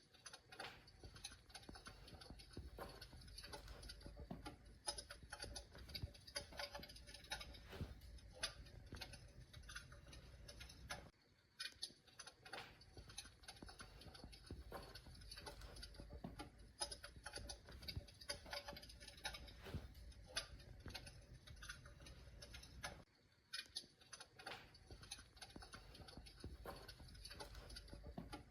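Faint fire-crackle sound effect: irregular pops and crackles over a low rumble, as of burning logs. It breaks off briefly and restarts about 11 and 23 seconds in, like a looped recording.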